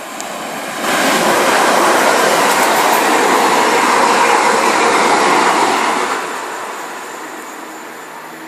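A train passing through at speed: a loud rush that starts suddenly about a second in, holds for about five seconds, then dies away.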